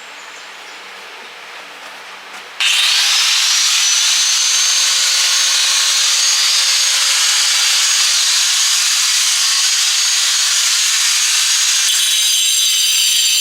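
Angle grinder fitted with a cement-cutting blade starts about two and a half seconds in, its whine rising for a couple of seconds and then holding steady over a loud, harsh grinding as it cuts into cement and brick. Before that there is only the low steady hum of a fan.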